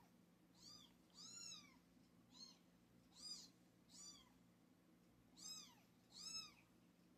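Young kittens mewing: a series of about seven short, faint, high-pitched mews, each rising and then falling in pitch.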